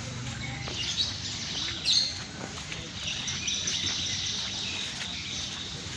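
Lovebirds chirping and trilling in high, shrill notes, with a louder burst of chirps about two seconds in and a long trill held through the middle.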